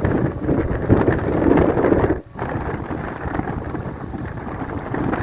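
Blizzard wind buffeting the microphone, loud and gusty, with a brief drop-out a little over two seconds in.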